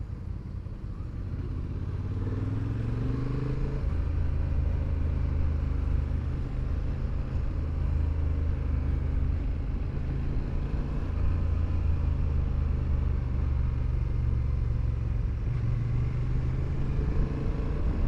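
Motorcycle engine under way: it climbs in revs a couple of seconds in, then runs steadily, with another change in pitch near the end.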